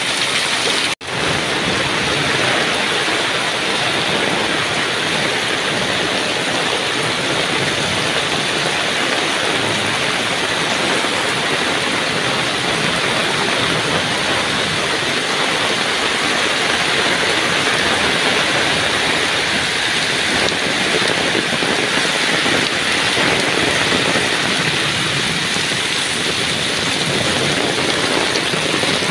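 Heavy tropical downpour: a steady, dense hiss of rain pouring onto a flooded lane. The sound drops out briefly about a second in.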